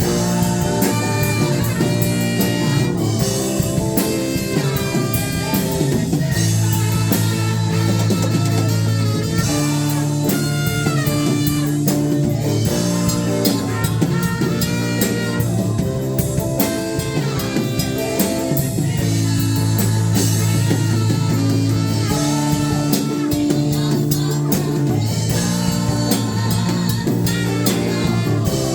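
Instrumental worship music from a band with electric guitar and drum kit, played steadily throughout.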